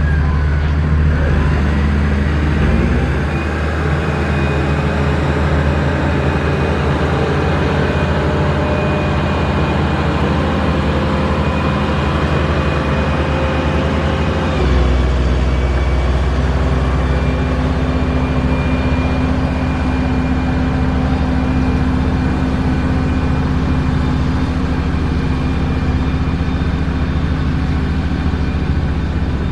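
Heavy construction machine's diesel engine running steadily close by, with a shift in its low engine note about halfway through.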